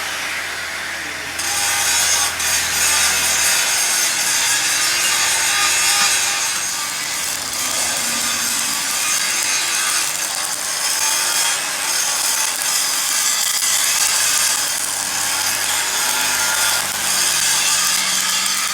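Continuous rasping of a hand or power tool abrading metal in a machinery workshop, going on steadily without a break.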